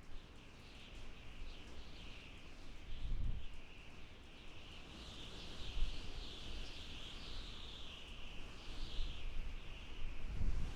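Wind blowing in gusts, with a low rumble that swells about three seconds in, again near six seconds and near the end. A continuous, wavering high-pitched chirping runs over it.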